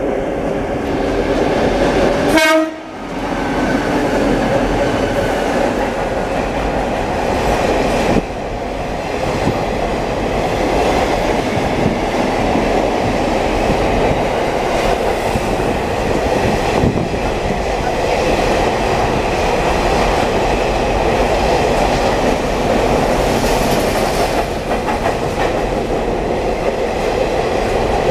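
Diesel locomotive horn sounding for about two and a half seconds, then a freight train's container wagons rolling past at close range, with steady wheel and wagon noise.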